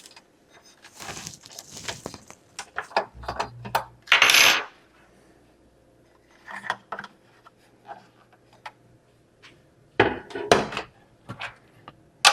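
Small hard plastic and metal parts of a bird feeder kit clicking and clinking as they are handled and fitted together, with a louder scraping rustle about four seconds in and another run of clicks near the end.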